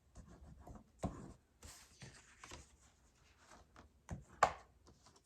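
Cardstock being handled on a work table: light rustling and scraping with a few short taps, the sharpest about a second in and two more near the end.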